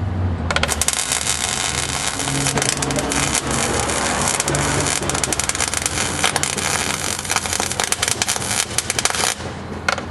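Welding arc crackling steadily as a bead is run on the sheet-metal patch of a pickup cab corner. It starts about half a second in, stutters in short bursts near the end, then cuts off.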